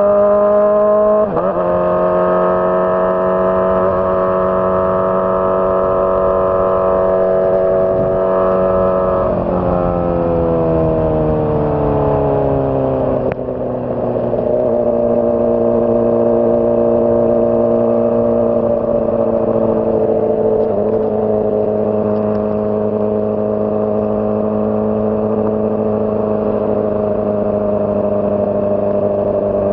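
Honda CBR600RR inline-four engine running at steady revs. About ten seconds in, the revs fall smoothly over three or four seconds, then hold steady at a lower pitch.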